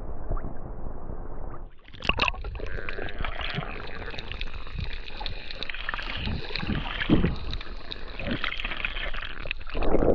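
Water sounds while snorkelling in the sea: muffled underwater noise at first, then a splash about two seconds in as the mic breaks the surface, followed by irregular splashing and sloshing water.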